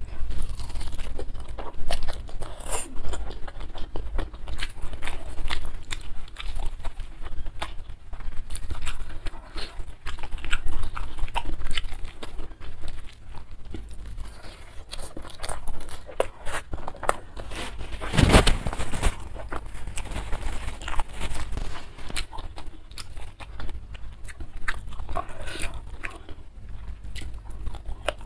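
Close-miked chewing of a handful of rice with raw leafy greens and sambal, with irregular wet mouth clicks and crunches all through and one louder crunch about 18 seconds in.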